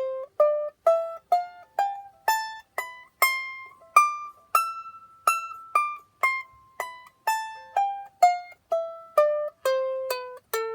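Piccolo ukulele played one plucked note at a time, about two notes a second, in a high register: the notes climb in pitch to about halfway, then step back down, each ringing briefly and fading.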